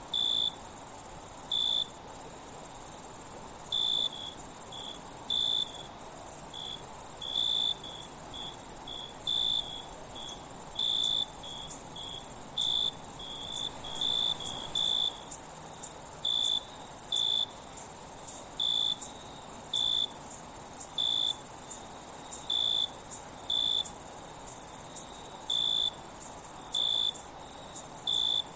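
Night insect chorus: a continuous high-pitched trill with crickets chirping over it in short, uneven pulses about once a second. The sound drops out for an instant several times.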